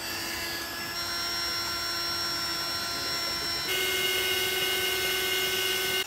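Built-in electric pump of an air mattress running steadily as it inflates the mattress, a droning motor whine. About halfway through, its note and loudness step up suddenly.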